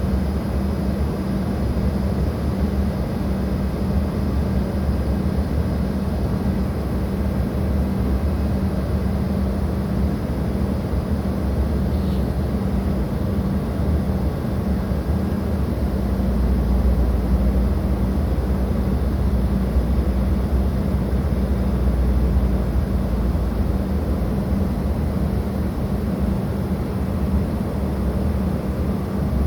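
Jet aircraft engines running steadily, with a low, steady hum, mixed with wind rumble that swells for several seconds about halfway through.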